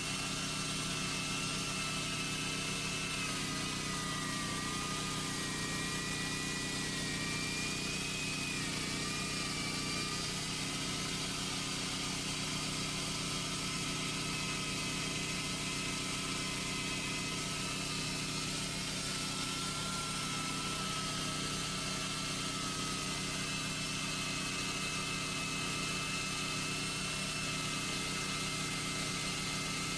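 Chainsaw running at a steady speed with a constant motor hum and a thin, slightly wavering high whine, with no rise or fall in revs.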